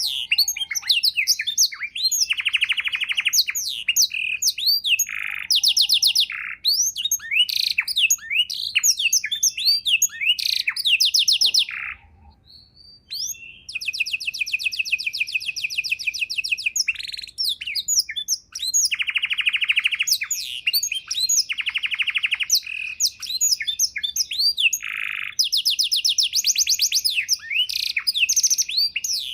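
Domestic canary singing a long, continuous song of rapid trills and quick whistled sweeps, with a short pause a little before the middle. The song is a rich one filled out with learned phrases (isian).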